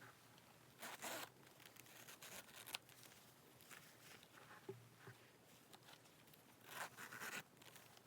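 Zipper on a small double-zip card case being run twice, a short zip about a second in and another near the end, with light clicks and handling noise between.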